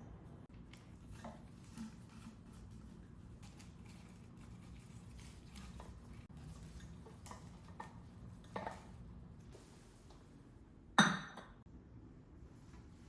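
Small taps and clinks of hard household objects being handled, with one loud, sharp clink about eleven seconds in that rings briefly.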